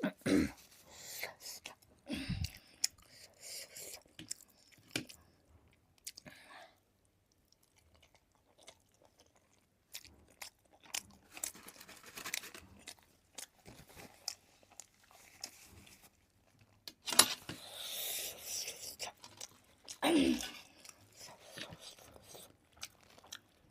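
Close-miked chewing and biting of food, with many small wet mouth clicks. The chewing pauses for a few seconds about a quarter of the way in, then resumes, louder in the second half.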